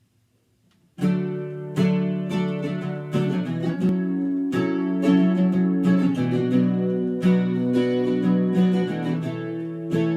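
Acoustic guitar intro: after about a second of near silence, strummed and picked chords start suddenly and carry on in a steady rhythm.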